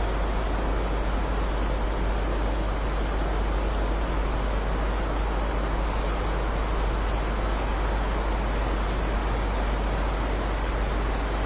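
Steady heavy rain, an even, unbroken hiss with a deep constant rumble underneath.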